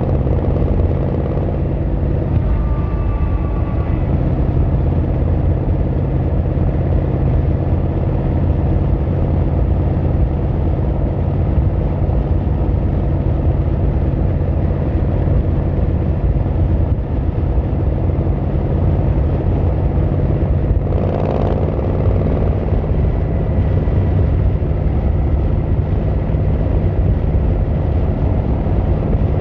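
Yamaha XVZ1300 Royal Star's V4 engine running steadily through its exhaust, its low pitch holding almost unchanged. A faint high tone sounds about three seconds in, and a brief rush of noise about twenty-one seconds in.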